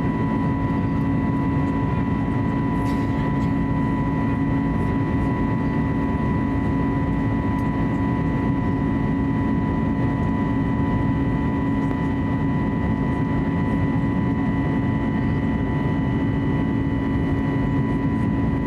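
Steady cabin noise inside an Airbus A320neo in flight, its CFM LEAP-1A engines and the airflow giving an even rumble with a constant low hum and a few thin, high steady tones.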